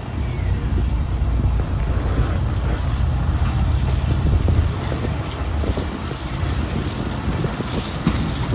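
Passenger train coach running along the track, heard from an open window: a steady low rumble of wheels on rail mixed with wind on the microphone.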